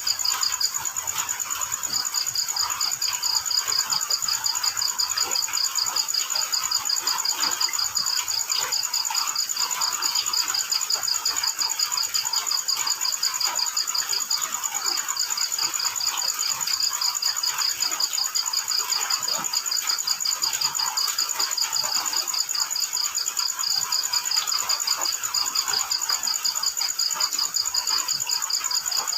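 Crickets chirping in continuous fast trills, several at different high pitches, the lowest trill breaking off briefly twice; a busy crackling hiss runs beneath.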